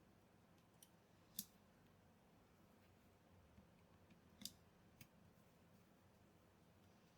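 Near silence, broken by a few short, sharp clicks: about four, the two loudest at about a second and a half and about four and a half seconds in.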